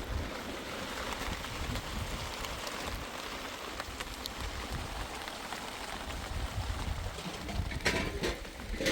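Rain falling steadily, with scattered drops pattering and a low rumble underneath. A brief louder noise comes near the end.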